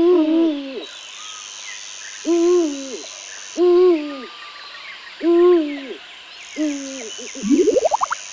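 Owl hooting: five separate hoots, each a short rising-then-falling note about a second and a half apart. Near the end there is a quick run of rising notes.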